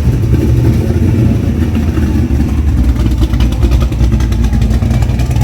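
A car engine running loud, its exhaust beating in quick, close-spaced pulses.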